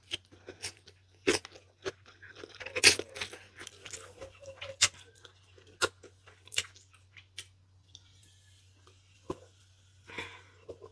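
Close-up mukbang eating sounds: chewing and smacking on spicy Korean instant noodles, with many short sharp wet mouth clicks, thinning out after about five seconds. A soft hiss comes in about eight seconds in, over a steady low hum.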